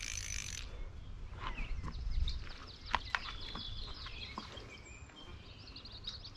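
Faint bird chirps over a steady low rumble, with a few soft clicks.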